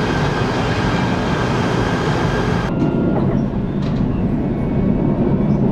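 Urban rail train running: a steady rumble with a faint high whine. About three seconds in, the higher hiss and whine cut off abruptly, leaving the low rumble.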